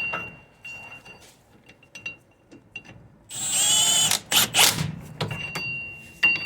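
Ratchet wrench clicking while tightening wheel-hub bolts a little at a time. There are scattered single clicks, then a quick buzzing run of fast ratcheting about three seconds in and a shorter one just after.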